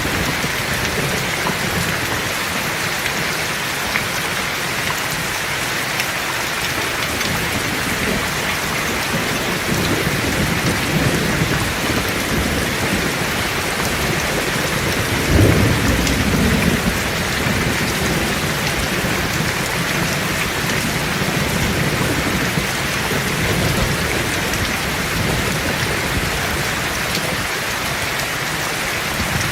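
Heavy rain falling steadily, with low rolls of thunder building through the middle and one louder clap about halfway through that rumbles on for a couple of seconds.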